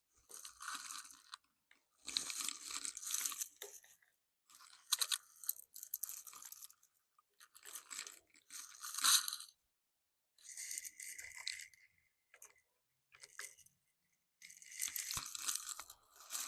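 Hands working on motorcycle handlebar parts: a string of short scraping and rubbing bursts with brief pauses between them.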